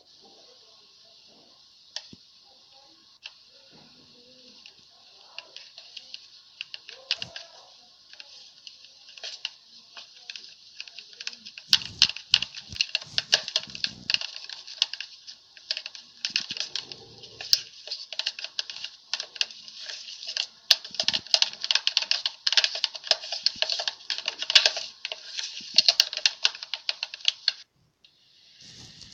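Slime being poked and pressed by fingers, giving off rapid crackling clicks and small pops, scattered at first and then dense and louder through the middle, stopping abruptly near the end.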